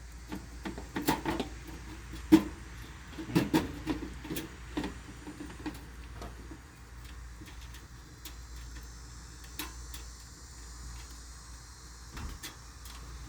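Irregular clicks and knocks, as of objects being handled, bunched in the first half with the sharpest knock a couple of seconds in, then only a few scattered clicks over a low steady hum.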